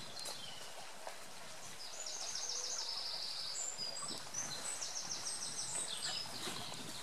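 A songbird singing a run of quick, high repeated notes from about two seconds in, over steady outdoor background noise.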